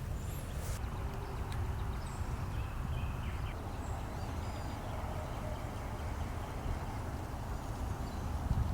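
Outdoor ambience: wind buffeting the microphone in a steady low rumble, with a few faint, brief bird chirps.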